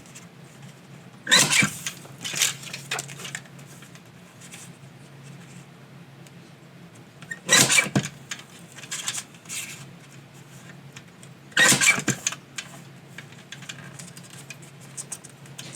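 Three short, sharp scraping or rustling noises, about one and a half, seven and a half and twelve seconds in, with fainter handling noises between, over a low steady hum: paper and cardstock being handled and worked on a craft table.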